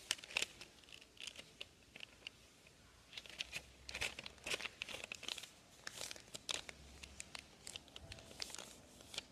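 Sheet of printer paper being folded in half and creased by hand, with faint crinkling and rustling in short crackles. There is a quieter pause about a second in.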